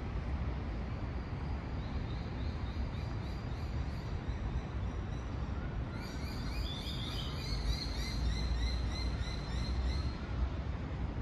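Birds chirping in a fast repeated series, about three calls a second, starting about two seconds in and growing louder and fuller about six seconds in. Under it runs a steady low rumble of city traffic.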